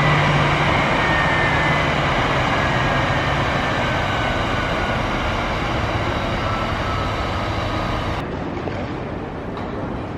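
Jet airliner engines running: a steady rushing noise with a whine that slowly falls in pitch. About eight seconds in, the sound changes abruptly and loses its hiss.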